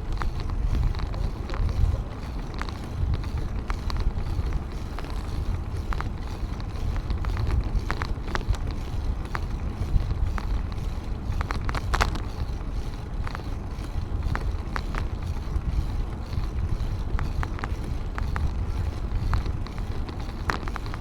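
Wind rumbling on the microphone during a bicycle ride, with scattered sharp clicks and rattles from the moving bike.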